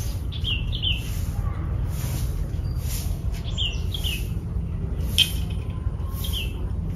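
Small bird chirping: short, high chirps that fall in pitch, mostly in pairs, every second or two, over a steady low rumble and a pulsing high hiss. A single sharp click about five seconds in.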